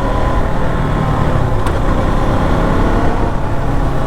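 KTM motorcycle engine running at a steady, slow cruise, with wind and road noise rushing over the rider's microphone.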